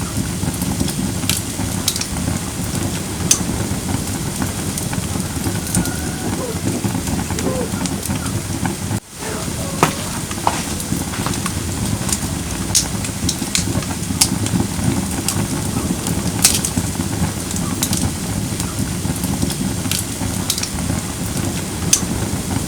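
Firewood logs burning in a campfire: a steady crackle with sharp pops scattered throughout. The sound briefly drops out about nine seconds in.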